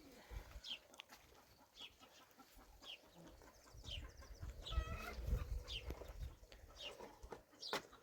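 Chickens calling: short, high, falling calls about once a second, with one fuller call about halfway through, over low knocks and rumbles.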